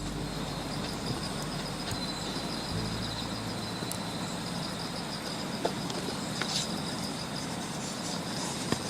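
Outdoor campsite ambience: insects chirring steadily at a high pitch, with a few sharp crackles from the campfire. A low hum fades out about three seconds in.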